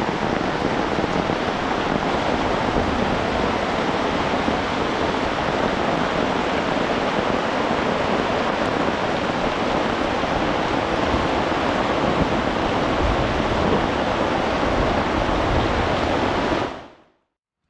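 Heavy tropical rain pouring steadily. It fades out quickly near the end.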